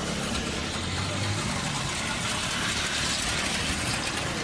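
A motor vehicle's engine running steadily, with a low hum that fades after about a second and a half.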